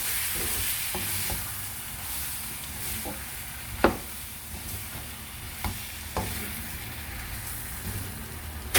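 Chicken coated in spice paste sizzling as it fries in a pan, stirred with a spoon that knocks against the pan now and then; the sharpest knock comes about four seconds in, with another near the end.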